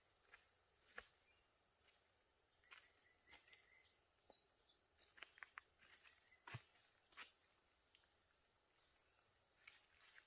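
Faint outdoor ambience: a steady high insect drone, with scattered light ticks and a few short bird-like chirps, the loudest about six and a half seconds in.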